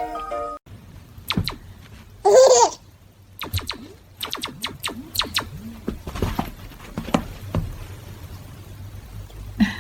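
A baby babbling, with one short loud squeal about two seconds in, among scattered light taps and clicks.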